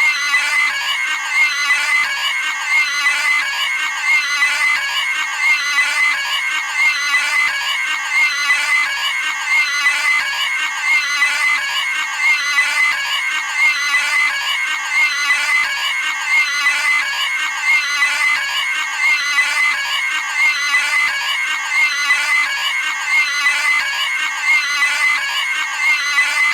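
Cartoon pig screaming: shrill squeals repeated over and over in an unbroken loop.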